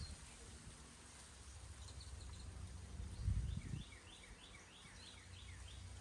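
A bird sings a quick run of about eight short, downward-sliding notes, about four or five a second, over a low outdoor rumble. A brief louder low thump comes about three seconds in, just before the bird's notes begin.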